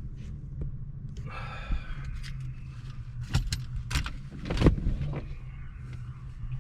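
Steady low hum of a parked car's engine idling. Over it come handling noises: a rustle a little over a second in, then several sharp clicks and knocks around the middle.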